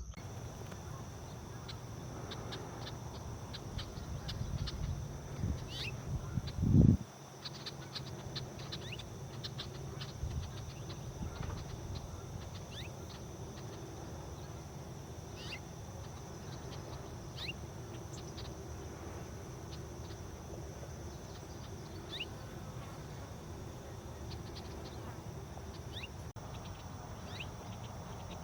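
Birds giving short, sharp falling chirps here and there over a steady high insect drone. About seven seconds in there is a low rumble that ends in a loud thump.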